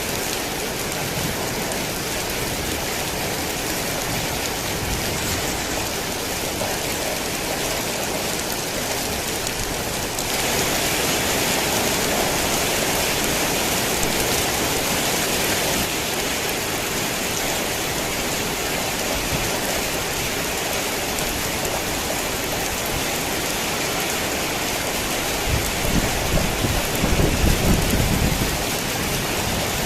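Steady rain falling. It turns louder and brighter for several seconds about a third of the way in, and a low rolling rumble of thunder comes in near the end.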